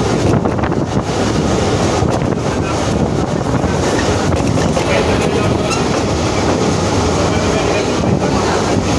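Mumbai suburban local train (electric multiple unit) running at speed, heard from its open doorway: a loud, steady rumble of the wheels on the rails.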